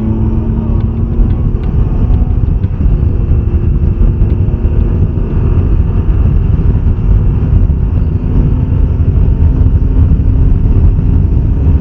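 Can-Am Ryker 900's three-cylinder engine running at a steady cruising pace while riding, its note holding one pitch over a heavy low rumble.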